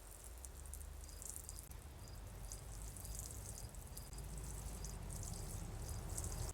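Water pouring and splashing onto garden soil as plants are watered, growing louder and stopping abruptly at the end.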